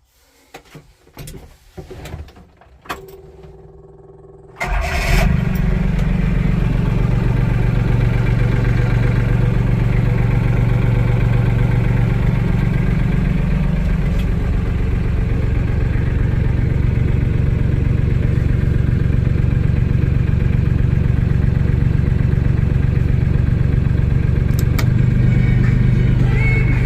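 A few clicks and knocks, then about five seconds in the diesel engine of a Solis 26 HST compact tractor starts and runs steadily, heard from inside the tractor's cab.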